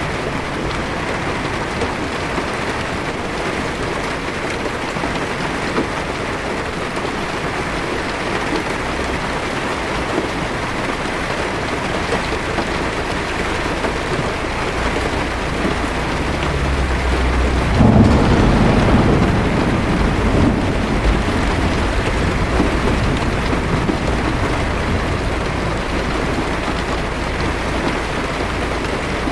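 Heavy rain drumming steadily on a car's windshield and roof, with a roll of thunder building about halfway through, breaking into a loud crack and rumbling away over the next few seconds.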